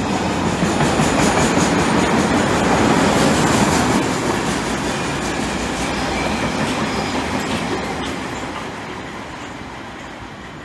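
Freight train of covered car-carrier wagons rolling past at speed, a steady rumble with wheels clicking over the rail joints. The sound fades away as the last wagon passes and the train draws off.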